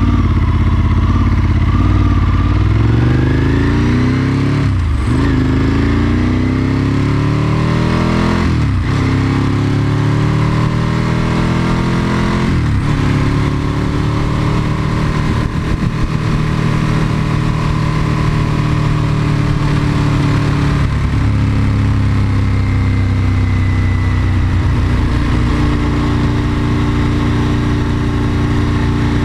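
Ducati 996's V-twin engine accelerating through the gears: its pitch rises in each gear, with quick upshifts about five, nine and thirteen seconds in, then it runs at a fairly steady speed.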